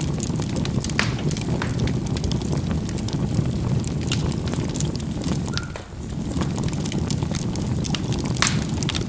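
Charcoal burning in a fireplace: a steady low rumble of the fire with a few scattered sharp pops and crackles. The rumble briefly drops about six seconds in.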